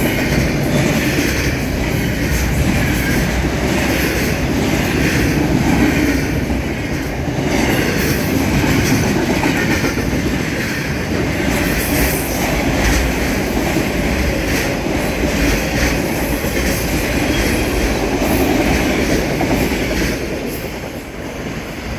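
Train cars rolling past, their wheels clattering over the rail joints in a steady, repeating rhythm. The noise eases off about twenty seconds in as the train goes by.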